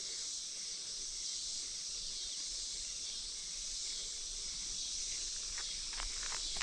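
Steady, high-pitched drone of an evening insect chorus, with a few faint short sounds near the end.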